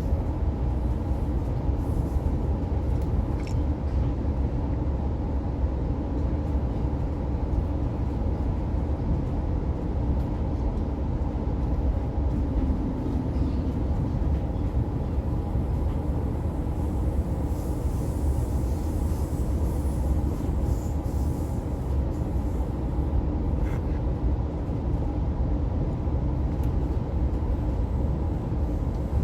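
Steady rumble of an Oscar H set electric intercity train running along the track, heard from inside a passenger carriage, with a few steady tones over the low rumble.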